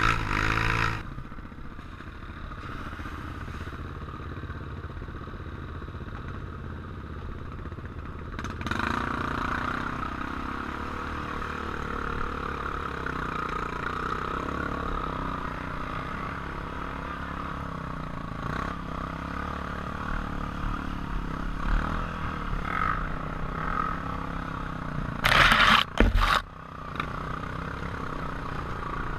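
Off-road motorcycle engine running steadily, with a short, loud burst of noise near the end.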